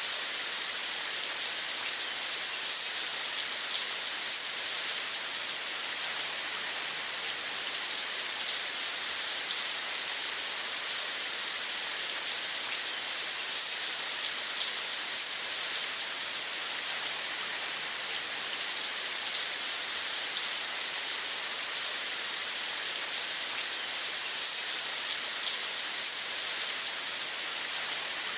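Steady rain falling, an even hiss dotted with fine patter of drops, without change or pause.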